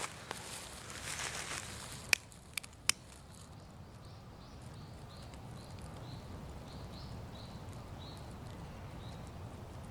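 Outdoor ambience: a rustle through dry leaves that fades after the first second or so, then three sharp crackles, then a faint high call repeated about twice a second, over a steady low rumble.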